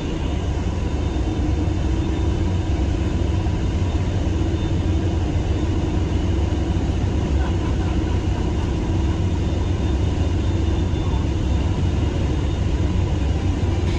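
Hovercraft engines and fans running at a loud, steady pitch, heard from inside the passenger cabin: a deep drone with a steady hum over it, cutting in abruptly.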